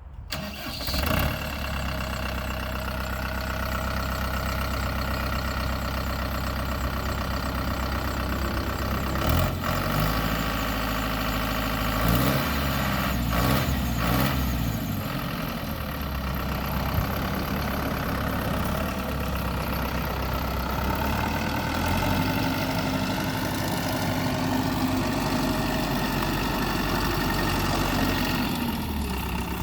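Diesel engine of a 2015 Deutz-Fahr Agroplus 420F tractor starting up about a second in, then running steadily. Its speed changes a few times: around ten seconds in, again between twelve and fourteen seconds, and once more in the last third.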